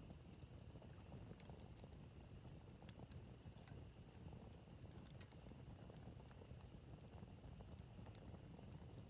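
Campfire burning faintly, the wood crackling with irregular sharp snaps and pops over a low steady rumble.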